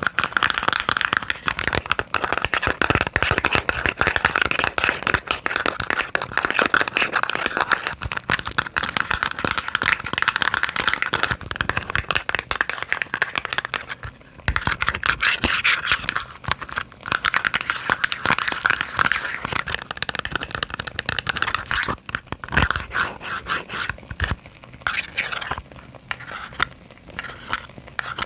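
Fast, continuous tapping and scratching on small boxes, a dense patter of clicks and scrapes that pauses briefly about halfway through and turns sparser and lighter near the end.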